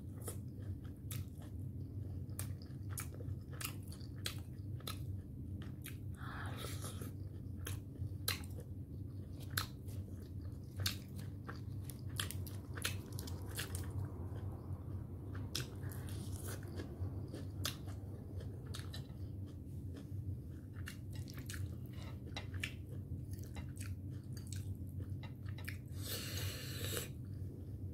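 Close-miked eating: a person biting and chewing steamed momo dumplings, with frequent wet mouth clicks and smacks over a steady low hum. Near the end comes a brief hissing burst as spicy ramen noodles are taken up.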